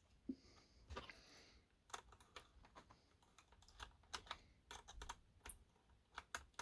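Faint, irregular small clicks and taps of hands and a tool working a plastic coupler box loose from a model locomotive's underframe.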